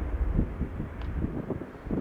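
Wind buffeting the microphone in uneven gusts over a low rumble of jet aircraft.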